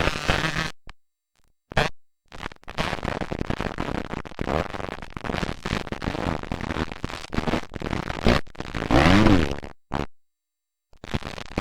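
Motocross dirt bike engines running and revving, with one loud rev rising and falling in pitch about nine seconds in. The sound cuts out to silence suddenly a few times, about a second in and again near ten seconds, where the camcorder recording breaks.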